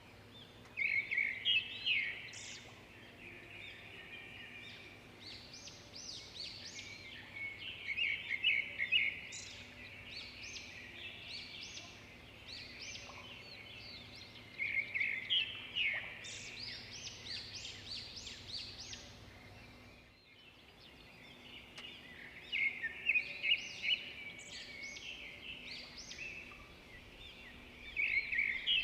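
Birds chirping and singing: a steady scatter of high, short calls, with louder clusters of rapid chirps coming about every six or seven seconds.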